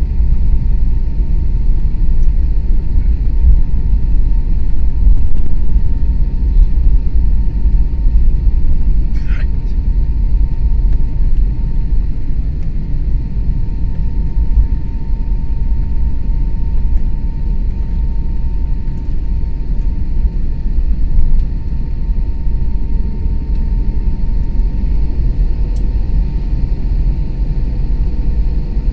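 Airbus A321neo cabin noise while taxiing after landing: a loud, steady low rumble with a constant faint high whine running through it.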